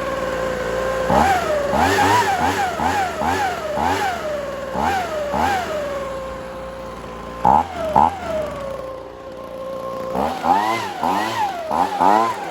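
A two-stroke handheld leaf blower idling and being blipped on the throttle over and over. Each blip is a quick rise and fall in pitch. A scattered group comes in the first half, two come in the middle, and a fast run of them comes near the end.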